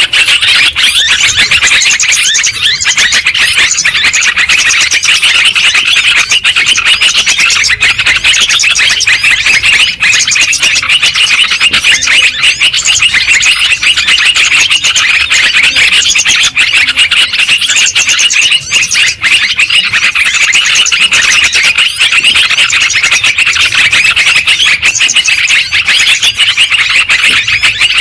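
Yellow-vented bulbuls (trucukan) chattering in a dense, unbroken, loud chorus of rapid high calls. This is a bird-lure recording of the species' noisy calls, of the kind played to draw them in.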